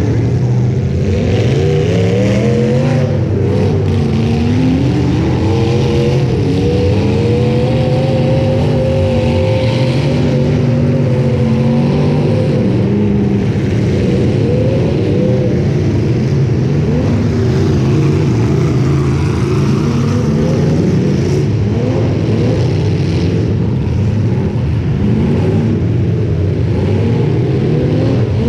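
Demolition derby car engines running hard and revving, the pitch climbing and falling over and over.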